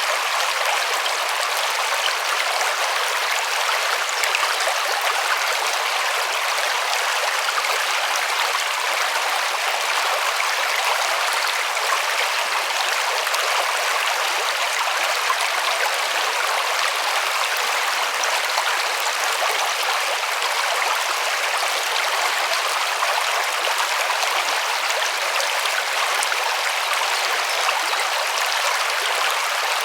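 River water rushing and splashing over stones in a steady hiss, with no change in level.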